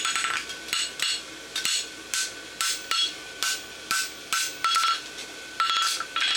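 Hand hammer striking hot steel bar stock on an anvil in a steady rhythm of about two blows a second, each blow ringing. The bar is a horseshoe branch being scarfed over for a forge weld.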